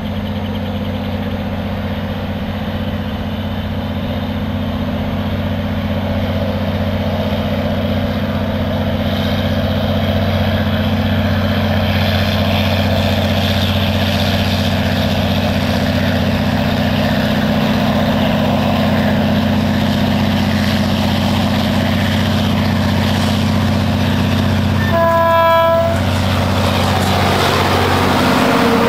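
EMD G22CU diesel-electric locomotive (two-stroke EMD 645 V12) running under load as it hauls a freight train, its engine drone steady while the rumble and rattle of the rolling train build. About 25 seconds in, the locomotive gives one short horn blast.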